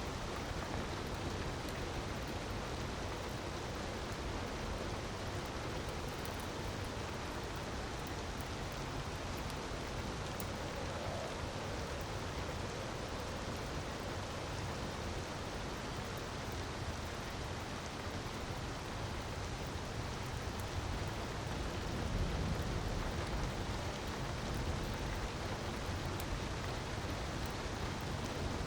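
Steady hiss of falling water, with faint scattered crackles and a low rumble that swells briefly about two-thirds of the way through.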